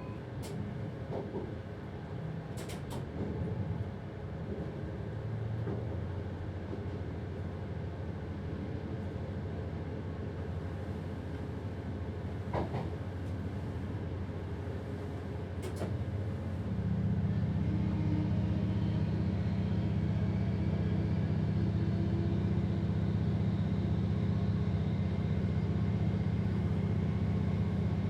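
Passenger train running along the track, heard from the driver's cab: a steady low rumble with a few sharp clicks. About two-thirds of the way through, the rumble steps up and gets louder, then holds steady.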